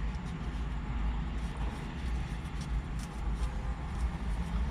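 Burrito wrapper paper crinkling in short, faint rustles as it is folded around the burrito, over a steady low vehicle rumble.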